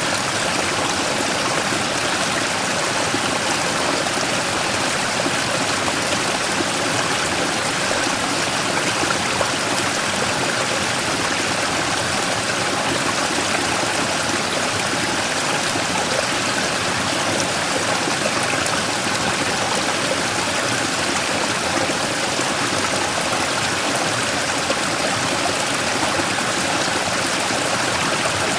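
Mountain stream rushing and splashing over a large rock in a steady, unbroken flow.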